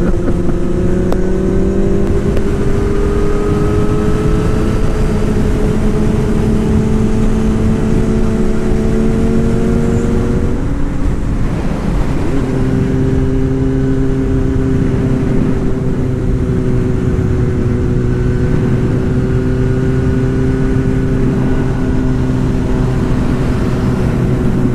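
Wind rush and the inline-four engine of a 2009 Yamaha YZF-R6S with a Two Brothers full exhaust running at road speed, heard from the rider's helmet. The engine note climbs slowly for about ten seconds, breaks off briefly near the middle, then holds steady.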